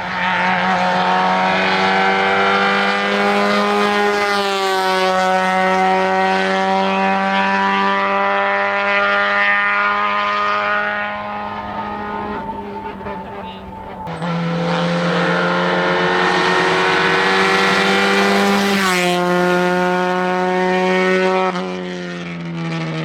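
Seat 127 race car's four-cylinder engine running hard at high revs up a hillclimb, with the note shifting in pitch a few times as it changes gear and fading briefly about two-thirds of the way through.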